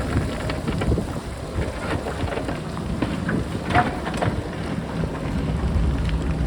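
JCB backhoe loader's diesel engine running under work, with rocks clattering and knocking as they tumble, and wind rumbling on the microphone.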